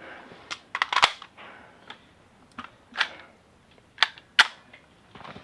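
A handful of scattered short clicks and knocks, the sharpest about four seconds in, with quiet between them.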